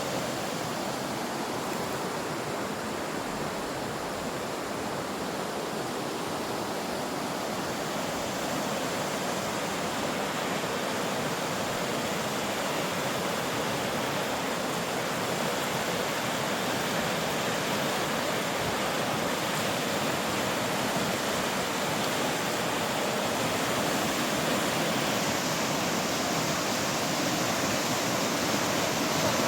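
Mountain stream rushing over rocks: a steady, even rush of flowing water that grows slightly louder over the half minute.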